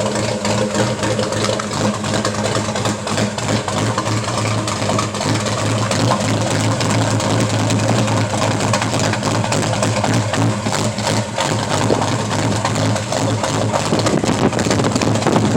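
Chevy 383 stroker small-block V8 (400 block with a 350 crankshaft) idling steadily.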